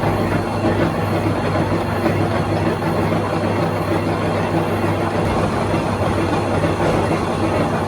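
Machine-shop machine running steadily: a constant low hum under an even, noisy whirr.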